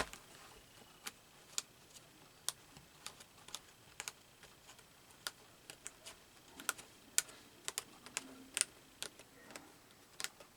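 Light, irregular clicks and taps of small hard craft items being handled and set down on a tabletop, roughly one to three a second.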